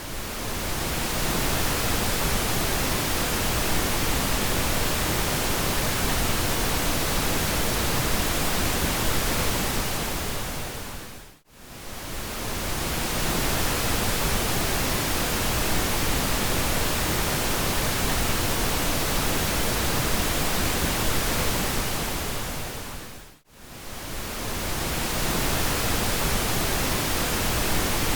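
Synthetic pink noise: a steady, even hiss with a deep low rumble. It fades briefly to near silence and swells back up twice, about twelve seconds apart.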